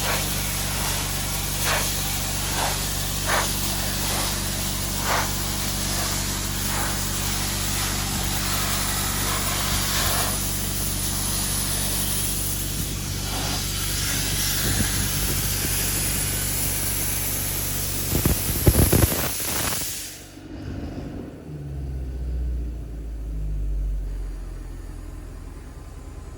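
Sandblaster running: a steady, loud hiss of air and abrasive over a machine's steady hum, with a few sharp ticks in the first few seconds. The blast cuts off suddenly about twenty seconds in, leaving a low uneven rumble.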